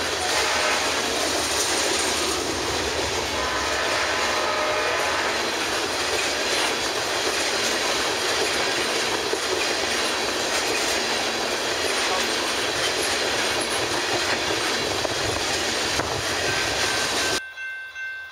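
Freight train of tank cars rolling past, a steady loud rumble and clatter of wheels on the rails. Near the end it cuts off abruptly, and a quieter regular ringing chime follows.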